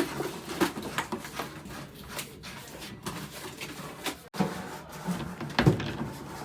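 Irregular knocks and clunks of handling, a sharp knock right at the start and another loud one about five and a half seconds in.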